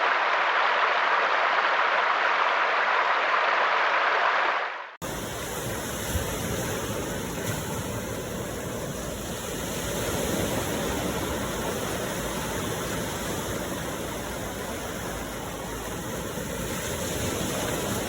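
Steady rushing of flowing water, like a stream or small waterfall. About five seconds in it cuts abruptly to a different, deeper and fuller rush.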